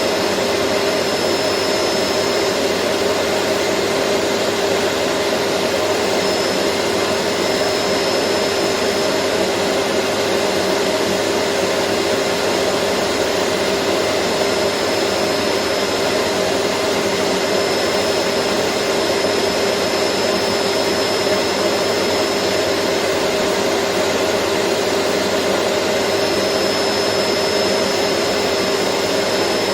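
Vacuum cleaner running steadily: an even rushing noise with a constant hum and a thin high whine that drops out twice for a few seconds.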